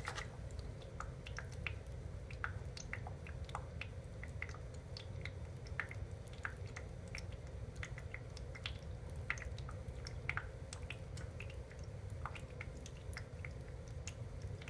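TurnRaise ultrasonic aroma diffuser running, its water reservoir giving off soft, irregular drip-like pops and gurgles over a faint steady hum.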